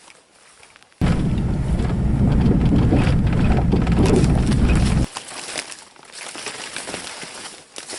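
Low rumbling wind buffeting the microphone, starting suddenly about a second in and cutting off just as suddenly about four seconds later.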